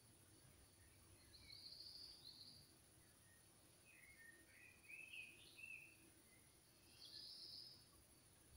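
Near silence with faint bird chirps: short high notes twice, and a quick run of varied chirps about halfway through, over a steady high hiss.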